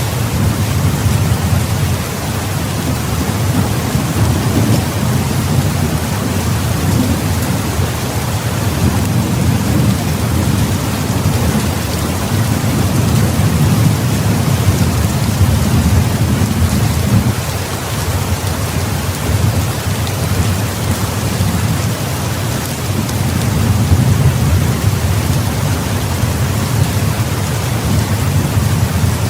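Heavy rain pouring steadily, with deep rolling thunder rumbling underneath that swells and fades several times.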